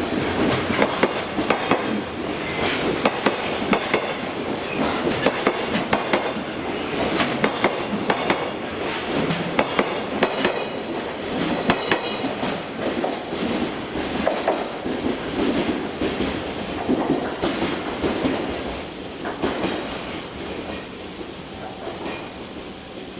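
Freight train wagons rolling past, the wheels clicking over rail joints in a steady rhythm with a few short, high wheel squeals. The sound fades away over the last few seconds as the train moves off.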